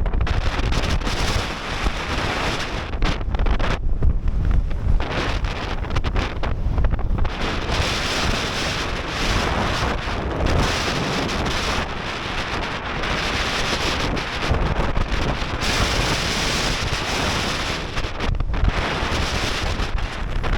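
Strong gale-force mountain wind blasting across the microphone, a loud rumbling roar that surges and dips in gusts.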